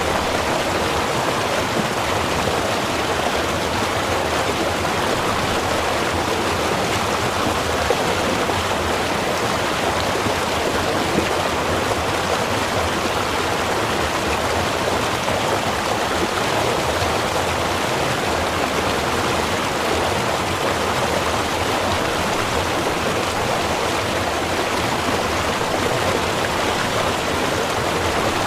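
Small river running steadily, an even rushing of flowing water.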